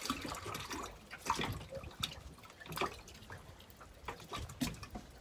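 Sea water lapping and splashing in small irregular slaps against the hull of a small drifting boat.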